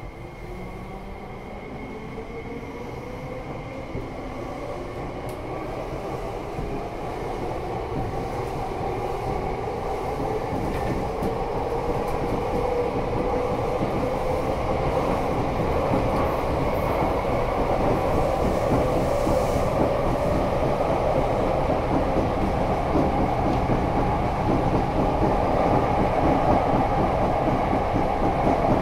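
Electric commuter train heard from inside the car as it accelerates: the traction motors' whine climbs steadily in pitch while the rumble of the wheels on the rails grows louder.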